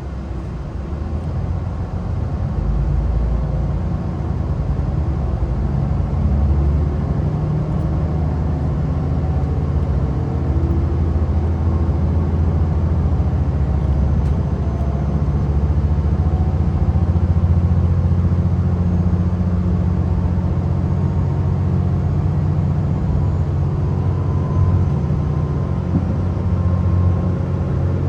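Diesel express train (KiHa 261 series DMU) running, heard from inside the passenger cabin: a steady low rumble of engine and running gear, building up over the first few seconds with the engine note slowly climbing in pitch as the train gathers speed.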